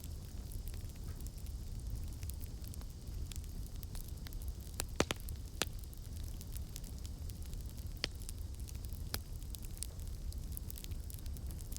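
Campfire crackling over a steady low rumble, with scattered sharp pops; the loudest are two close together about five seconds in.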